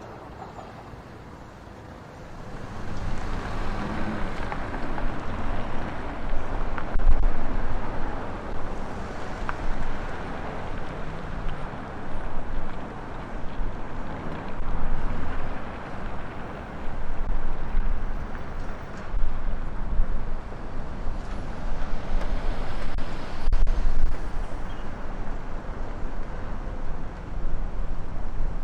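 Storm wind buffeting the microphone, its windshield not holding: a loud, gusty rumble that comes in about two seconds in, then surges and drops unevenly.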